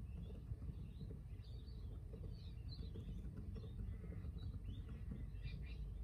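Small birds chirping and calling, many short calls scattered throughout, over a steady low rumble.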